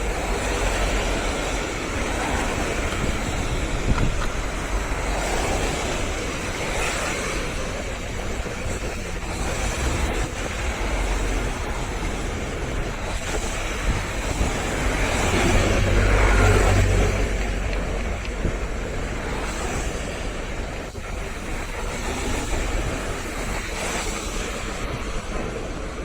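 Windy seafront ambience: a steady noisy rush of road traffic and sea waves, with wind rumbling on the microphone. It swells louder for a couple of seconds a little past the middle.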